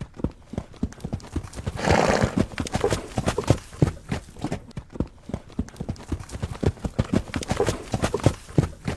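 Horse hooves striking the ground in a quick, uneven clip-clop, with one short, louder burst of sound from the horse about two seconds in.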